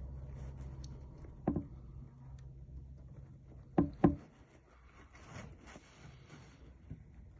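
Low rumble of a motor vehicle on a snowy street, fading about four seconds in. A sharp knock comes about a second and a half in, and a louder pair of knocks comes near the middle.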